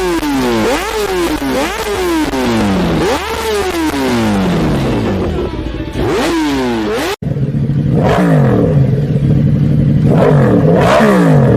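Motorcycle engines revved hard on their exhausts: repeated throttle blips, each rising sharply in pitch and falling away. About seven seconds in, a cut leads to another bike idling with a steady note between sharp revs.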